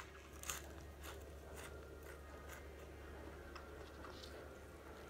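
Quiet chewing of a battered, deep-fried arugula (jirjir) fritter, with a few faint crunches in the first couple of seconds, over a steady low hum.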